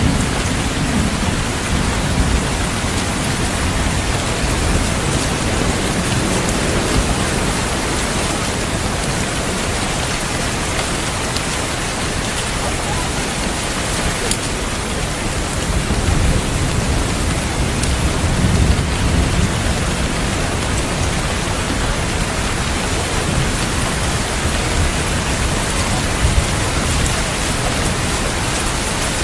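Steady heavy rain, with low rolls of thunder rumbling near the start and again about two-thirds of the way through.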